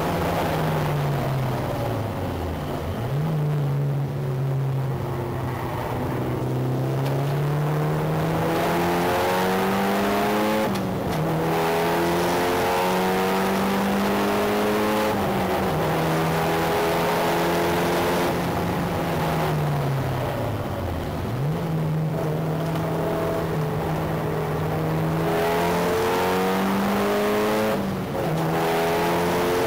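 Mitsubishi Lancer Evo VI's turbocharged four-cylinder engine driven hard on track, heard from outside the car above the front wheel with road and wind noise. Its pitch climbs and drops again and again through gear changes and lifts, falling very low twice, about three seconds in and again around twenty seconds in.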